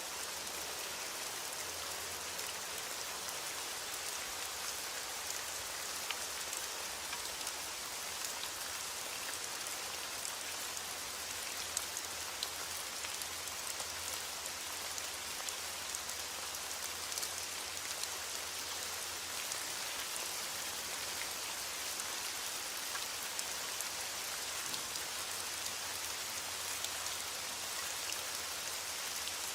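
Steady rain falling, with the patter of many small drops striking a surface.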